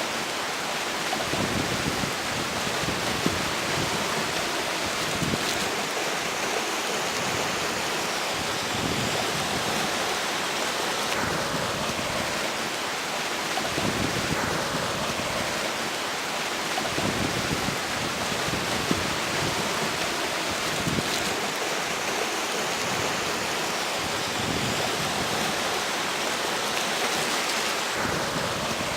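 A flowing river's steady rush, with strong wind buffeting the microphone in uneven low swells every second or two.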